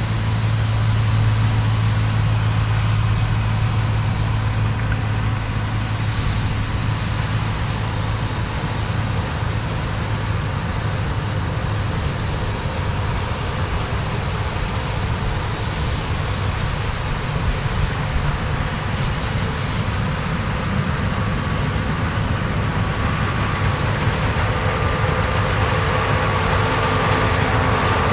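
Combine harvesters running steadily while harvesting corn, a continuous low engine hum under a broad machine noise.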